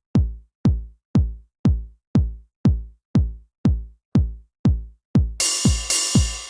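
Electronic drum-machine kick drum playing a steady four-on-the-floor beat, two hits a second, each a punchy thump that drops quickly in pitch into a deep boom. A bright hissing wash with some held tones joins the beat about five seconds in.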